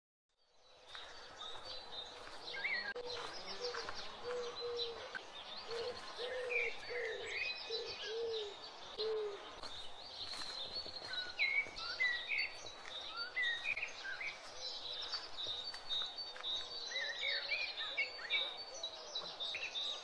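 Several birds singing and calling: high chirps and whistled notes throughout, with a run of low, evenly repeated calls in the first half.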